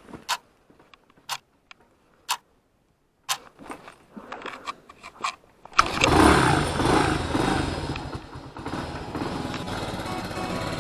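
A few sharp clicks, then about six seconds in a small motorcycle engine comes in suddenly and keeps running steadily.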